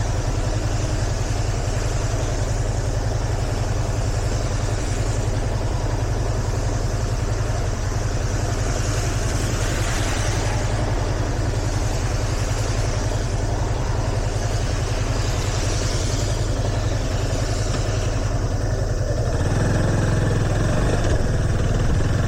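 Yamaha FZS25's single-cylinder motorcycle engine running steadily under a constant hiss of wind and road noise, its note growing louder near the end.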